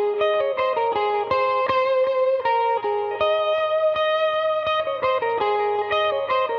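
Electric guitar played through a Line 6 Helix amp-modeller patch, picking a repeating melodic line of single notes, about three a second, each note ringing on into the next.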